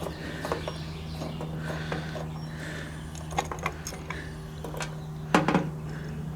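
Small metal clicks and taps of scooter carburetor parts being handled during disassembly, with a sharper rattle of clicks about five seconds in, over a steady low hum.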